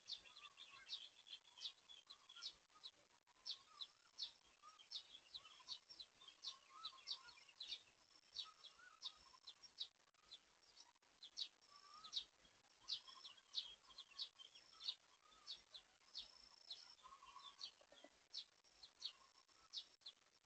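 Wild birds calling faintly: a steady run of short, quick high chirps and brief whistles, with a lower wavering song coming and going beneath them.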